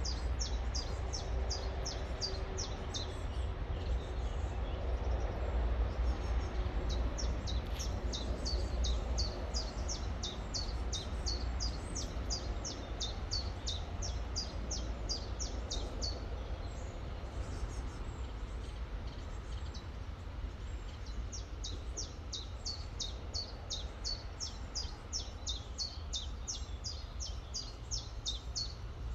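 A songbird calling with rapid, repeated high chirps, about three a second, in long bouts that pause for a few seconds between, over the steady rushing of a river and a low rumble.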